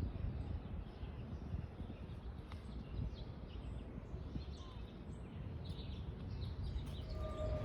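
Scattered bird chirps over a steady low background rumble. Near the end a steady horn-like tone begins.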